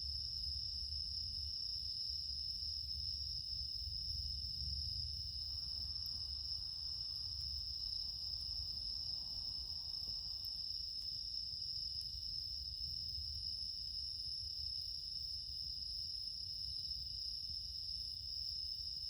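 Chorus of autumn night insects, bell crickets (suzumushi) among them, chirring steadily on a high pitch, over a low steady rumble.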